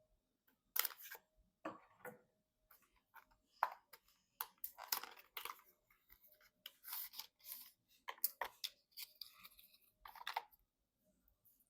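Hands handling computer parts and cables: a run of irregular clicks, rustles and scrapes, with a faint steady hum underneath.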